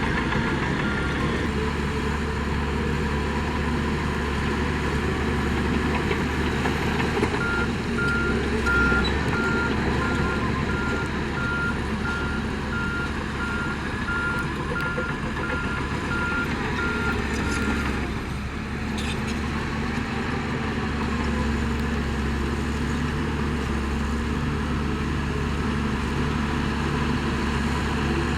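Heavy diesel construction machinery running steadily, with a reversing alarm beeping in an even repeating pattern briefly at the start and again from about a quarter of the way in until just past the middle.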